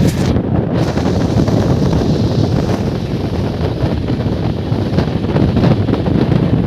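Wind buffeting the microphone over the steady rumble of a moving passenger train.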